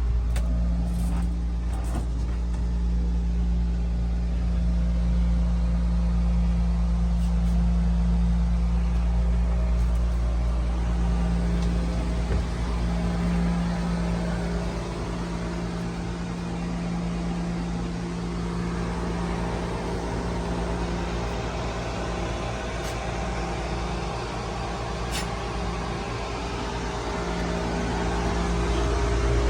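Steady mechanical hum of a running motor, with a constant low drone and a fixed pitch above it.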